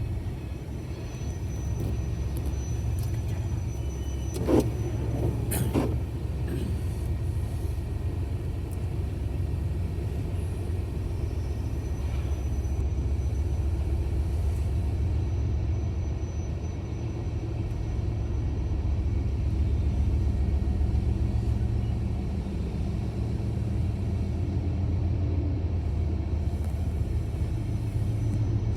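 An engine running with a steady low rumble, with a couple of brief knocks about five seconds in.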